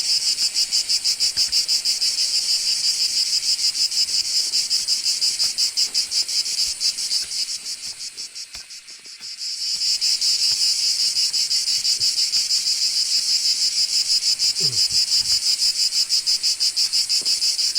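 Cicadas singing: a loud, high, rapidly pulsing buzz that fades about eight seconds in and swells back up a second or two later.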